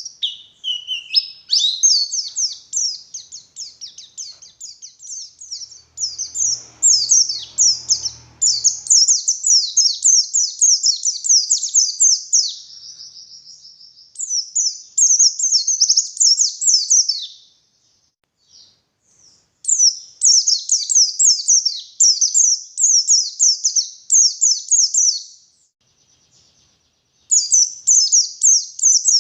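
White-eye (pleci) singing a fast, high chattering song in long phrases, with two short breaks in the latter half.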